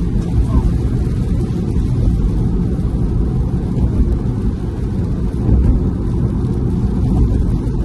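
Steady low rumble of a car driving along an expressway: road and wind noise with no distinct events.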